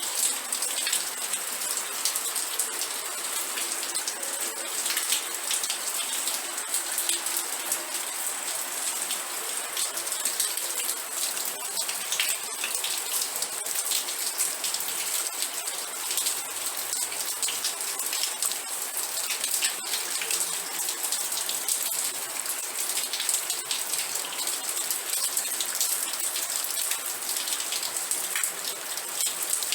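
Steady rain falling: an even hiss strongest in the high range, dense with small individual drop impacts, unchanging throughout.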